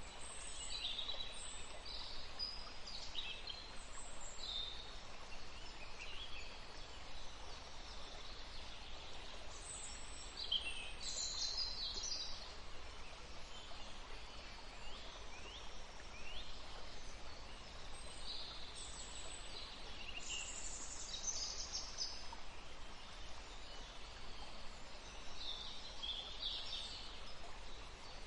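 Small birds chirping and calling in scattered bursts of short high notes over the steady rush of a forest stream.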